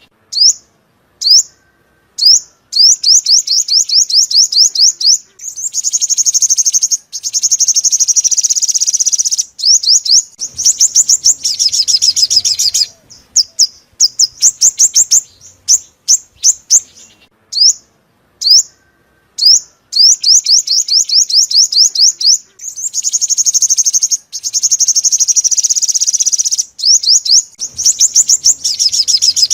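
Sunbird song: series of fast, high, down-slurred chirps broken by two long rapid trills. The phrase pattern repeats, as in a looped lure recording.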